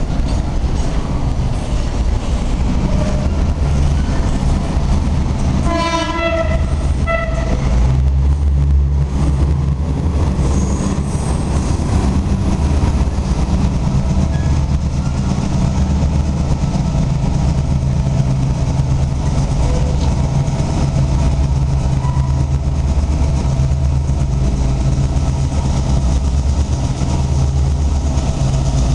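Diesel engine of ADIF shunting locomotive 310.022 running steadily as it works a freight train, with wheels on the track. About six seconds in its horn sounds two blasts, a longer one and then a short one.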